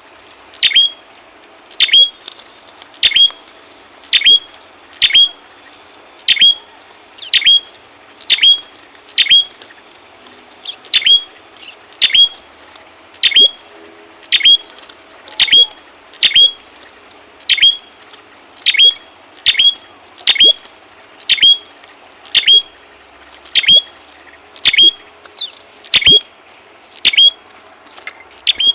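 Lure-call recording of a prenjak kepala merah bird: a loud, sharp, high-pitched chip repeated about once a second, each note sweeping quickly down in pitch.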